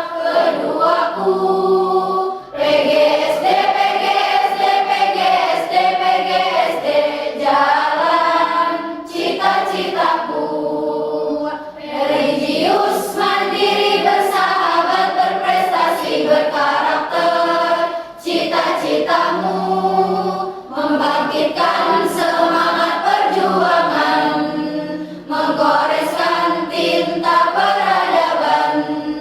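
A choir singing, the phrases broken by short breaths every few seconds.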